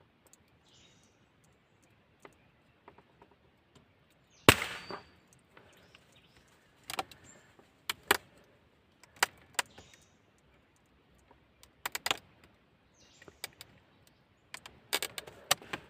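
Scattered sharp clicks and knocks at irregular intervals, the loudest a single sharp knock about four and a half seconds in, with quiet stretches between.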